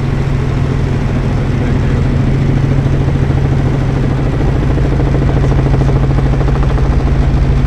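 Helicopter in flight: a loud, steady drone with a fast, even pulsing throb.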